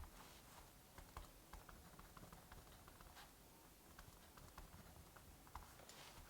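Faint crackling of a wood fire, irregular small pops and snaps over a soft steady hiss of rain.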